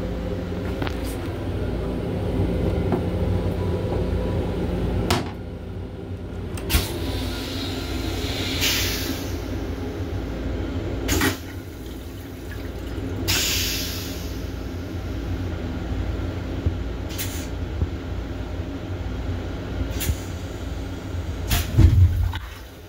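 Interior noise of an M7 electric railcar heard from inside its small restroom: a steady low rumble and hum, with scattered clicks and knocks. Two brief hissing rushes come about a third of the way in and about halfway. A heavy low thump near the end is the loudest sound.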